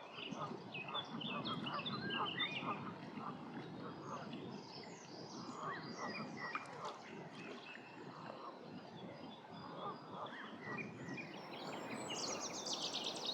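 Several songbirds singing at once, many short, varied, overlapping phrases over a steady low background noise, with a quick series of high repeated notes near the end.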